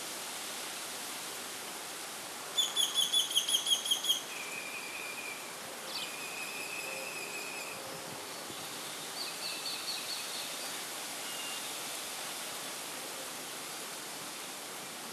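Black-necked stilts calling. A rapid run of about ten sharp notes, the loudest part, comes a few seconds in, followed by shorter drawn-out calls and then another quick run of notes, all over a steady background hiss.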